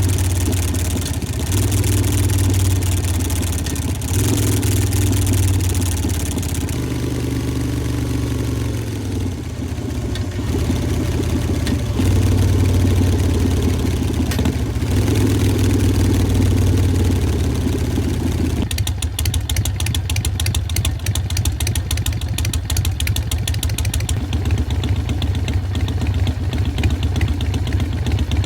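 Harley-Davidson Sportster Forty-Eight's air-cooled 1200 cc V-twin running through Vance & Hines Short Shots exhaust. The engine is brought up and held several times, then drops to a lumpy idle with distinct, uneven firing beats for the last third.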